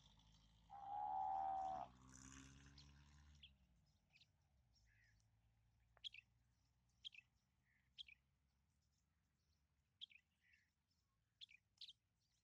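A loud held tone, a little over a second long, about a second in, over a low rumble that fades out after a few seconds. Then small birds chirping: short single chirps about once a second, sometimes in pairs.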